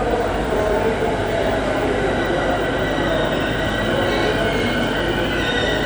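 E231-series electric commuter train running on the rails, a steady rumble with thin high-pitched tones joining from about halfway through.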